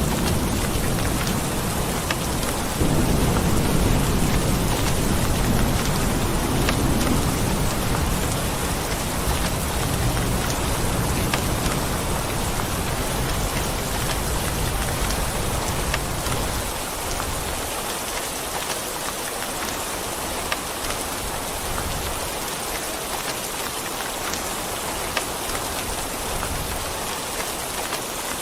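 Steady rain falling, with a low rolling rumble of thunder that swells about three seconds in and dies away after about sixteen seconds, leaving only the rain.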